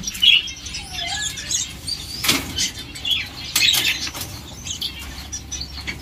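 Small aviary birds chirping and twittering in short high calls, scattered throughout, with a couple of sharp knocks about two and three and a half seconds in.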